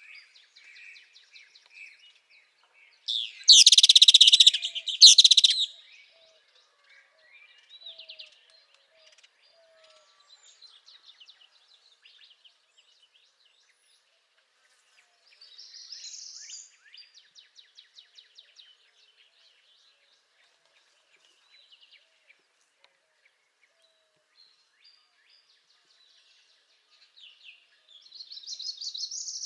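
Northern parula singing its buzzy song: one loud song about three seconds in, and two fainter ones midway and near the end. Faint trills and chips of other birds sound between them.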